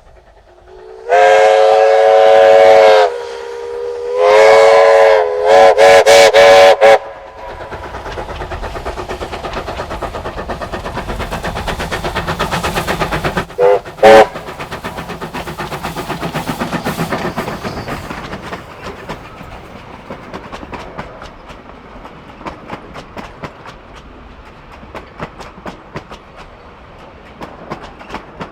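Steam whistle of the NZR Ww class 4-6-4T tank locomotive No. 480, sounding two long blasts, then a quick run of short toots, then two more short toots about halfway through. Under it is the rhythmic clatter of the running train, which dies away over the last ten seconds.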